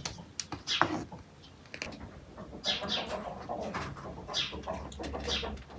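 Small birds chirping outdoors: a few short, falling chirps spread through, with a sharp click or two near the start from peppers being handled at the table.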